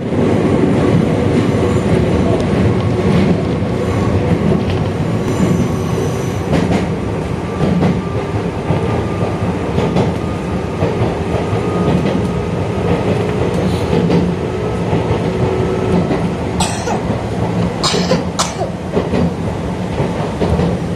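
Toyohashi Railway 1800 series electric train running, heard from inside the front of the car: a steady rumble of wheels on rail with a faint whine that rises slowly in pitch, and a few sharp clacks about three-quarters of the way through.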